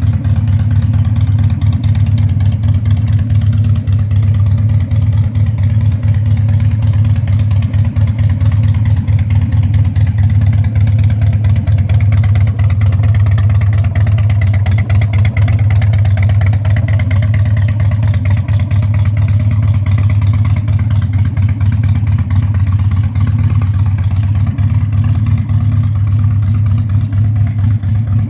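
Harley-Davidson Dyna Super Glide's fuel-injected V-twin engine idling steadily, with a deep, even exhaust note.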